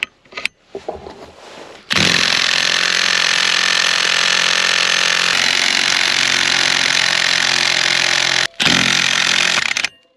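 Cordless impact wrench running hard on a clutch puller bolt to pull an Arctic Cat snowmobile's primary clutch. It runs steadily for about six seconds, stops briefly, then gives one more short burst.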